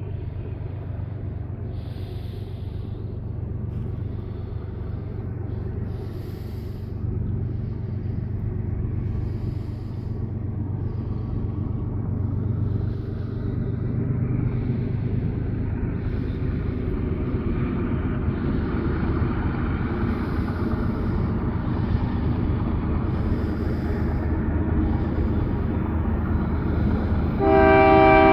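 CPKC double-stack freight train's diesel locomotives approaching with a steady low engine rumble that slowly grows louder. Near the end the locomotive's air horn starts a loud chord of several tones for the crossing.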